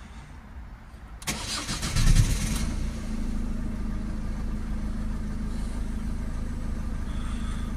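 Ford Focus 1.6 TDCi four-cylinder diesel engine cranked on the starter, catching about two seconds in with a brief flare of revs, then settling into a steady idle. Heard from inside the car's cabin.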